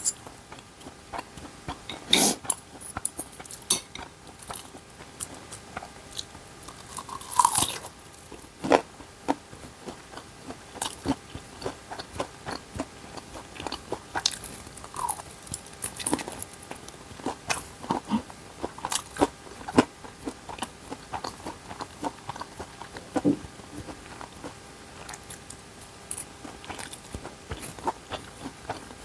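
A person eating ramen and dumplings: irregular bites, chewing and mouth sounds, with short sharp clicks scattered unevenly throughout.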